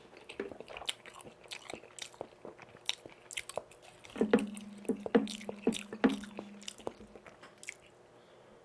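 Close-miked chewing of Korean pan-fried jeon dipped in tteokbokki sauce: a run of wet clicks and mouth smacks. A steady low hum sounds under the chewing for about two and a half seconds in the middle.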